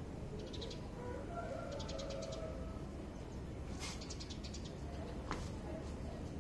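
Birds chirping in short, rapid high trills, with a few faint thin calls between them, over a steady low background hum. Two brief sharp snaps cut in, about four and five seconds in.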